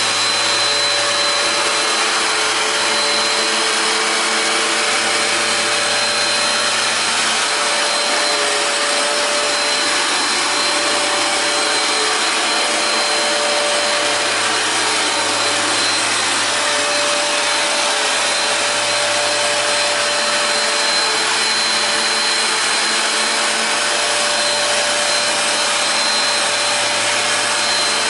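Hoover Power Dash carpet cleaner running steadily, its suction motor drawing through the cleaning head, with a constant high whine over the noise.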